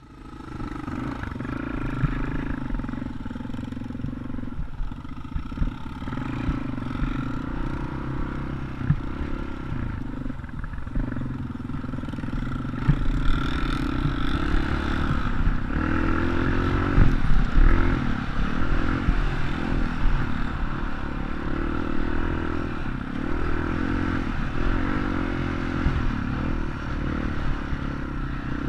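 Dirt bike engine running, its revs rising and falling again and again, most of all in the second half.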